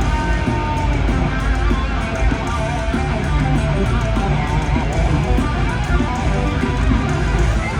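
Electric guitar playing a fast lead solo over a heavy-metal backing with bass and drums.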